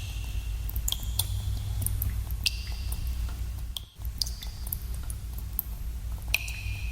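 Water drops falling into cave pools: irregular plinks, each with a short ringing tone, over a steady low rumble. Everything cuts out for a moment a little past the middle.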